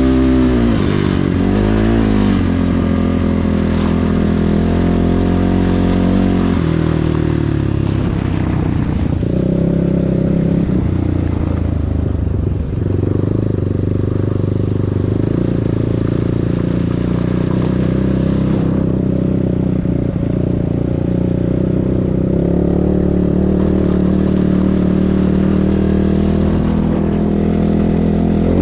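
KEWS K16 PRO enduro motorcycle engine running under way, its pitch rising and falling with the throttle in the first seconds and stepping down a few times before it settles into steady running.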